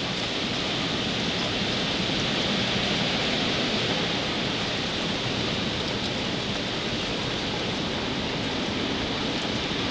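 Hurricane storm noise: a steady, even rush of rain and wind with no distinct events.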